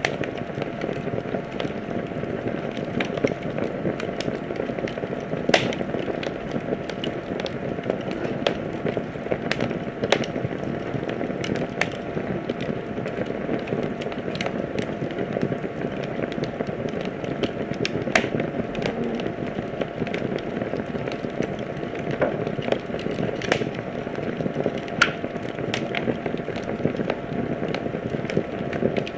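Wood fire burning in a fireplace, crackling steadily with frequent sharp pops and snaps over a soft hiss of flames.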